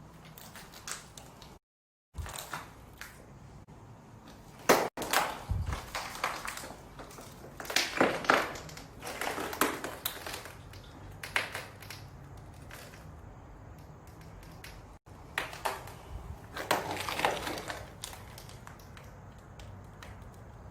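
Irregular crunching and clattering with a few sharp knocks, coming in scattered bursts.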